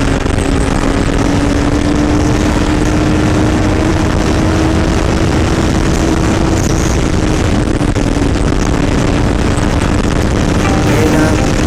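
Suzuki GSX-R600 K5 inline-four engine under way at a steady pace, its note slowly climbing as the bike gains speed, with a heavy rush of wind noise over it.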